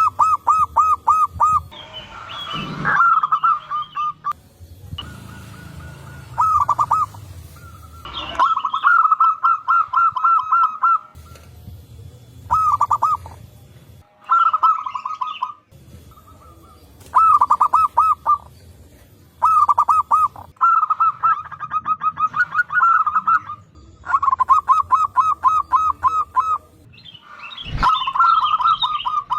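Zebra doves cooing: repeated bursts of quick, rippling coos held at one pitch, several birds calling back and forth with short pauses between bursts.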